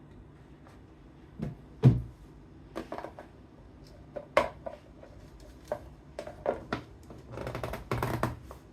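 Objects being handled by hand: scattered clicks and knocks, the loudest about two seconds in, then a short stretch of scraping and rustling near the end.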